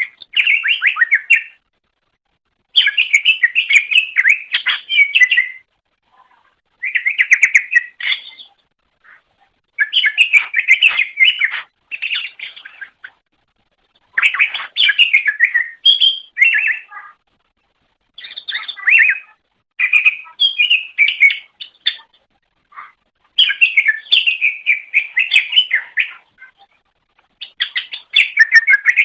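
Cucak ijo (greater green leafbird) singing in repeated phrases of rapid chattering notes. Each phrase lasts one to three seconds, with short pauses between them.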